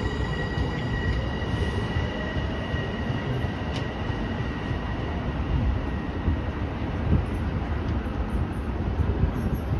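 Electric passenger train running on rail: a continuous low rumble with a steady high whine from its motors that fades away over the first few seconds.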